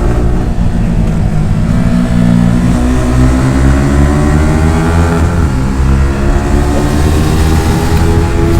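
Yamaha R15 V4's single-cylinder engine through an Akrapovic R1M exhaust under hard acceleration. The pitch climbs, drops sharply twice as the revs fall, then climbs again.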